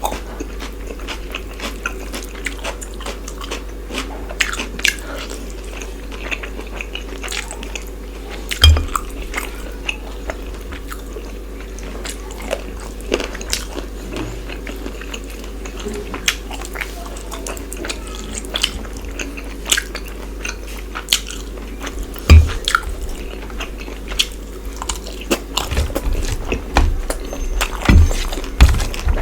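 Close-up eating sounds: a person chewing and biting into chicken masala and rice, with many small wet clicks and smacks and a few louder knocks, over a steady low hum.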